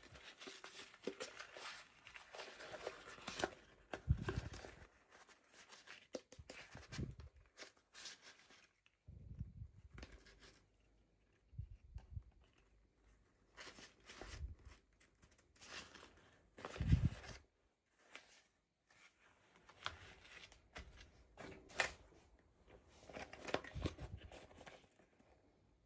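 Toy packaging being handled and opened: intermittent rustling, crinkling and tearing, with a few soft thumps and clicks.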